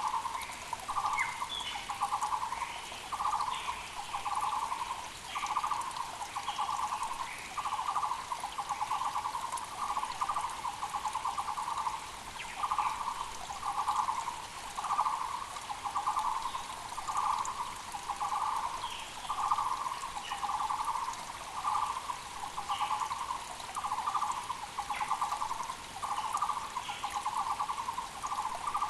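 Muller's barbet (Taiwan barbet) calling without pause: a steady run of repeated hollow notes. Other small birds chirp briefly at a higher pitch over it.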